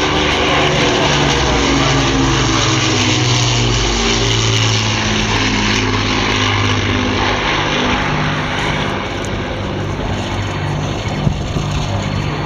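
Avro Lancaster's four Rolls-Royce Merlin piston engines droning as the bomber flies its display, the engine note shifting in pitch as it moves past.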